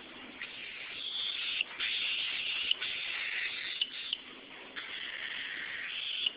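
Cockatiel hissing in four long breathy hisses of about a second each, with short sharp clicks between them.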